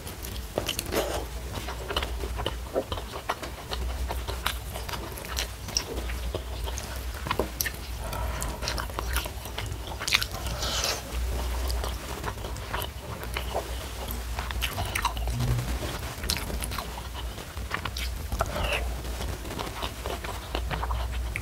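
Close-miked chewing and biting of crunchy fried food coated in sambal terasi, with irregular crunches and wet mouth clicks.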